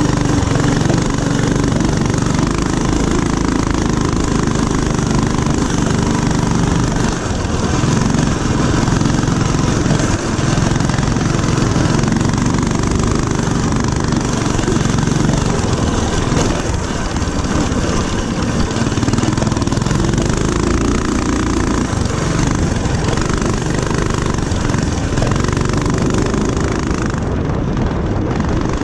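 Small single-cylinder mini-bike engine running steadily at riding speed, with brief dips in pitch as the throttle eases.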